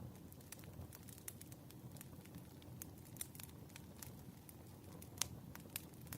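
Burning firewood crackling softly: scattered sharp pops over a low, even rustle of the fire, with one louder pop a little after five seconds in.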